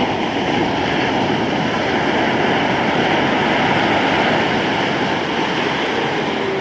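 Ocean surf: a steady rush of breaking waves that swells slightly towards the middle.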